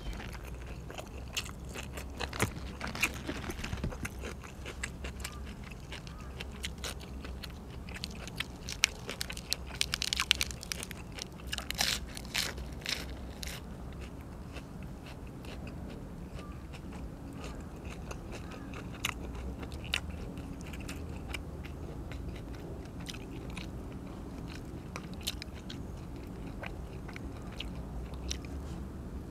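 A person eating close to the microphone: wet chewing and biting, with a cluster of crunchy bites about eight to thirteen seconds in, over a steady low hum.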